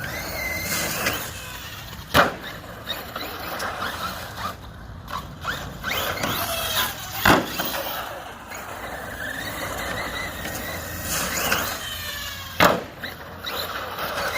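Large-scale RC monster truck driving on concrete. Its motor whine rises and falls with the throttle, and the tyres scrub. Three sharp impacts come spaced several seconds apart, the truck landing or hitting the ramps.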